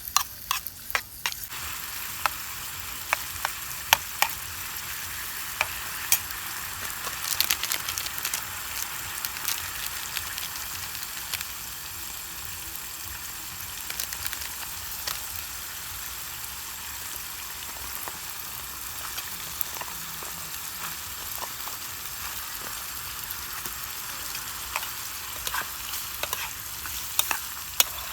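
Food sizzling in hot oil in a pan, a steady hiss that sets in about a second and a half in, with frequent sharp pops and crackles throughout.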